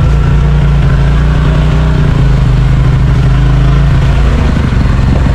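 Side-by-side UTV engine running steadily, its drone shifting slightly in pitch about two seconds in.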